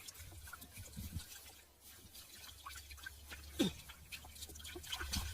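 Wet mud and water squelching and dripping in small irregular clicks as hands probe a flooded eel hole, with one louder sound about three and a half seconds in.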